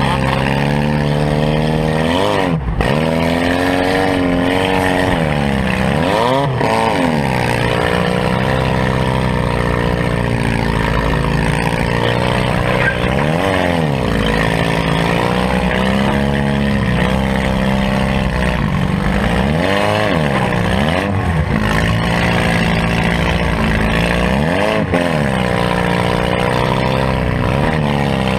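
Compact demolition-derby car's engine, heard from inside its cabin, revving up and falling back again and again as it is driven hard.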